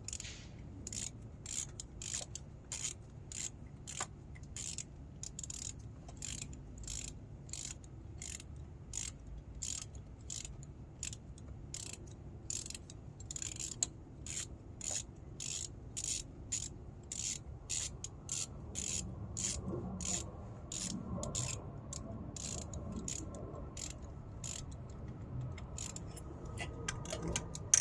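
Socket ratchet clicking in short, even strokes, about two a second, as a spark plug is turned out of the engine.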